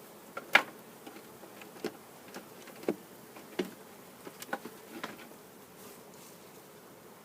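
Honeybees buzzing around an open hive: a steady low hum, with single bees zipping close past about ten times, the loudest pass about half a second in.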